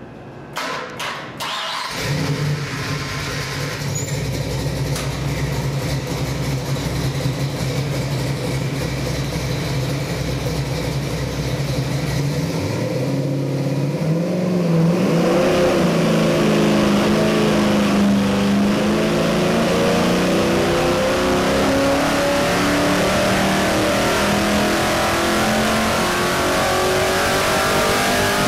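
Carbureted 363 cubic-inch Ford stroker small-block V8 on an engine dyno. It is started about two seconds in and runs steadily for several seconds. From about halfway through its revs climb in one long, steady rise under load during a full power pull.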